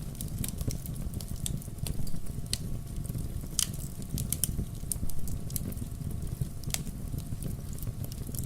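Wood logs burning in a fireplace: a steady low rumble of the flames with frequent irregular sharp crackles and pops.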